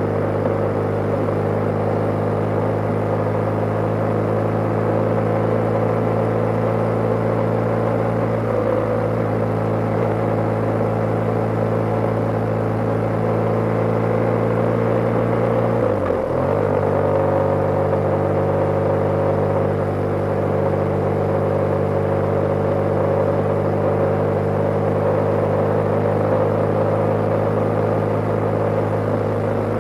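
BMW G/S motorcycle engine running steadily at cruising speed on the road, with a haze of wind and road noise; the engine note dips briefly about halfway through, then holds steady again.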